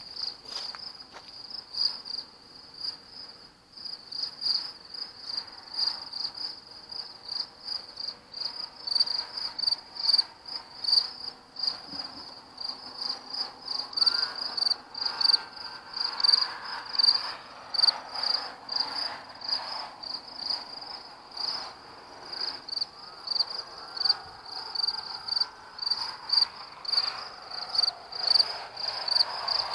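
Crickets chirping in a steady, fast pulsing rhythm at night. A fainter, wavering lower sound swells twice, midway and near the end: the unidentified noise that is being listened for.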